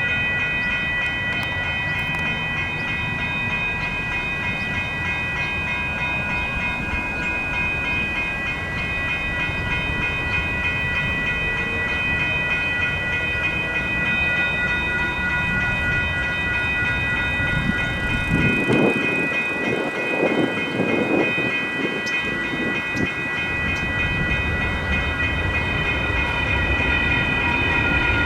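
Railroad crossing electronic bells (WCH and GS E-Bells) ringing continuously over the rumble of a passing light rail train. A louder rush of train noise comes about two-thirds of the way through.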